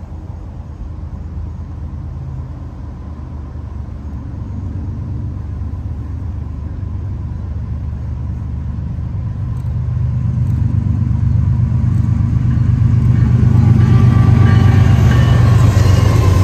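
Approaching Norfolk Southern freight train: the diesel locomotives' engines and the rumble on the rails grow steadily louder and deeper as the train nears, and are at their loudest near the end as the locomotives pass close by.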